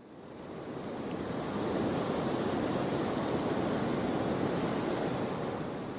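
Steady rushing water of a river, fading in over the first second or two.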